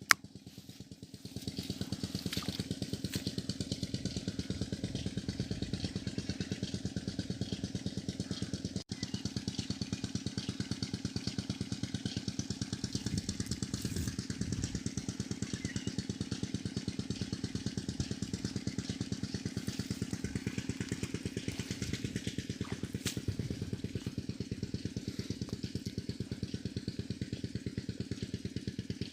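Diesel engine running steadily with a fast, even firing beat, powering a belt-driven tube-well pump; it comes up about a second in.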